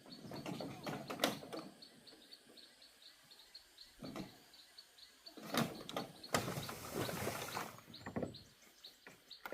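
Bouts of rustling and scraping with a few sharp knocks, the loudest about a second in and in the second half. Behind them, a high chirp repeats about three times a second.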